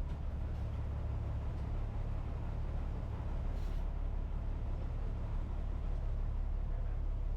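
Steady low rumble of a non-air-conditioned city bus's engine and road noise, heard from on board while it is moving.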